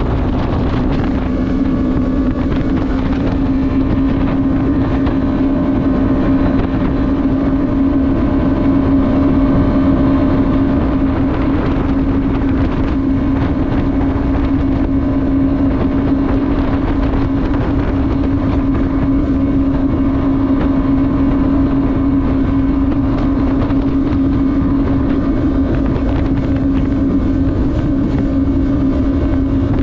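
Jet ski engine running flat out at a steady speed, its tone holding one pitch throughout, with wind noise on the microphone.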